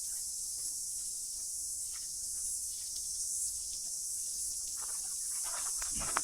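Steady high-pitched chorus of cicadas, an unbroken shrill hiss with no pauses. Footsteps on the walking track come in near the end.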